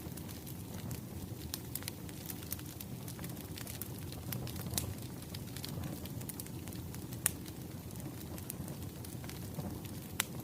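Burning firewood crackling: a steady low rush of flames with scattered sharp pops and snaps, one louder snap about seven seconds in.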